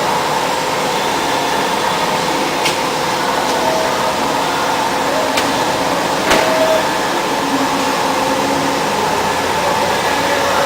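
High-speed CNC drilling machine running with a steady whirring hiss, broken by three short sharp clicks a few seconds apart.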